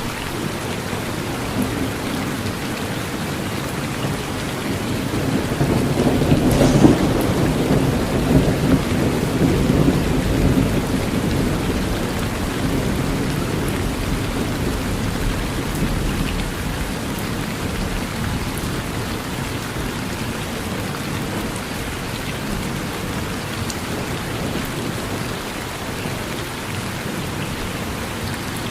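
Steady rain falling, with a roll of thunder that builds about four seconds in, cracks sharply near seven seconds and rumbles away over the next several seconds.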